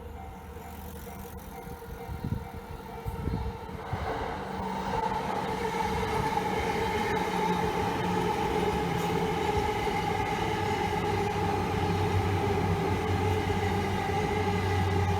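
A Yamanote Line electric train running through the level crossing, its rumble and a steady whine building about four seconds in and then holding. The crossing's warning bell rings steadily throughout.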